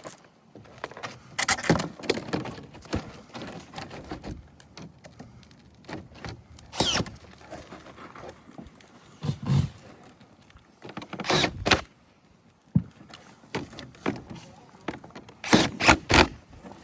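Metal roof shingles being handled and fastened: sheet metal clattering and scraping in irregular clusters, with short runs of a power screw driver. The loudest clatter comes near the end.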